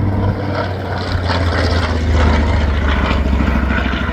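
A piston-engined World War Two warplane flying low past, its propeller drone dropping in pitch about half a second in as it goes by.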